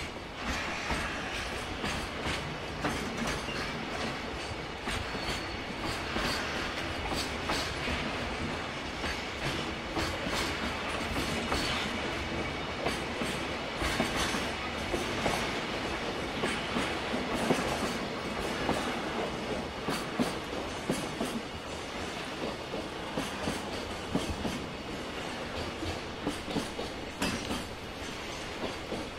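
Freight train passing on the line, its wagons' wheels clattering steadily over the rail joints.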